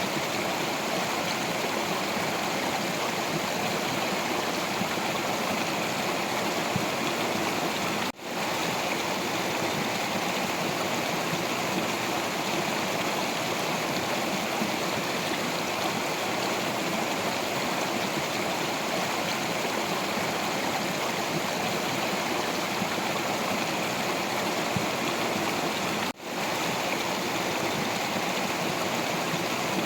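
Stream water flowing over rocks, a steady, unbroken rush. It cuts out for a split second twice, about 8 and 26 seconds in.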